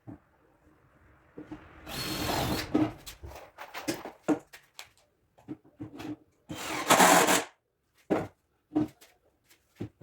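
Cordless drill-driver run in two short bursts, driving screws into MDF cabinet panels, between scattered knocks and clicks of the boards and tools being handled.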